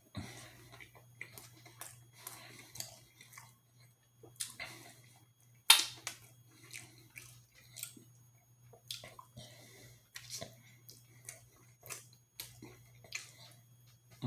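Close-miked eating: chewing and wet mouth clicks come in short bursts, with one sharp, louder click near the middle. A steady low hum sits underneath.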